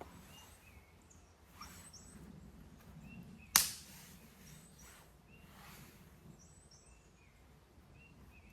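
Small birds chirping repeatedly in the forest, with a few soft swishes of handling or rustling. About three and a half seconds in comes a single sharp knock or snap, the loudest sound, which dies away quickly.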